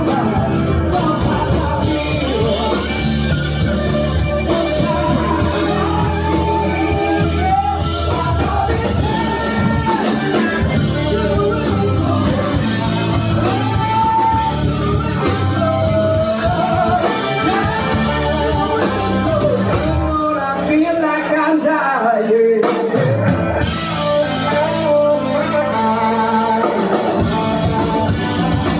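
Live rock band playing: electric guitar, keyboards, bass and drum kit. About twenty seconds in, the bass and cymbals drop out for a few seconds, then the full band comes back in.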